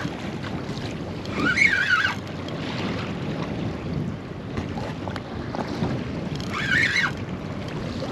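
Wind buffeting the microphone and water washing against a small boat's hull, a steady rushing noise, with two brief high-pitched wavering sounds about one and a half and six and a half seconds in.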